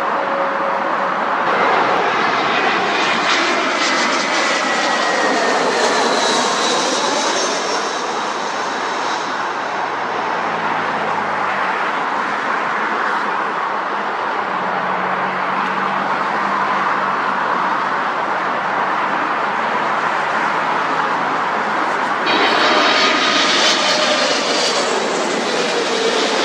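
Jet airliner engines running loudly as aircraft pass close by, a whine falling in pitch in the first several seconds. A second aircraft's high engine whine comes in abruptly near the end.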